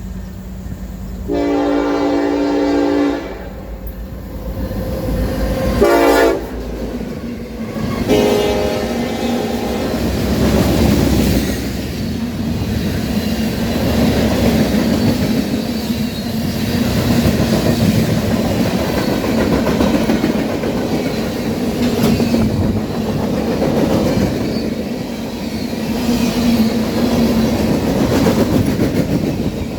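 Diesel locomotive horn sounding three blasts: a long one, a short one and a longer one. The train then passes with a steady heavy rumble.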